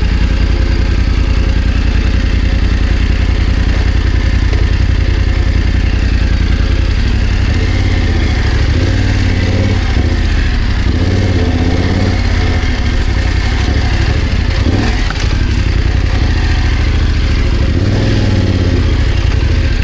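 BMW F900GS motorcycle's parallel-twin engine running at low revs. It is revved up and down in short rises and falls from about eight seconds in, and again near the end, as the bike struggles to get through a difficult spot off-road.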